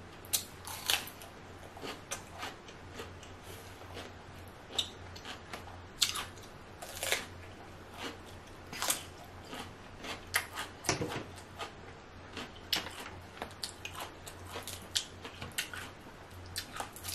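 Close-miked eating sounds: chewing with wet mouth smacks and scattered sharp clicks and crunches, irregular and spaced out. Near the end come fingers working a small shellfish, a crawfish, apart.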